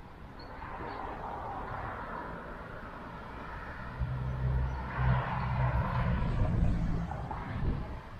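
Cars passing on a suburban street: tyre and engine noise swells and fades twice. The second pass is louder, with a low rumble.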